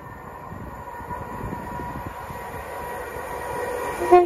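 Electric multiple-unit train approaching through a station, its running noise growing steadily louder, with a short horn toot near the end.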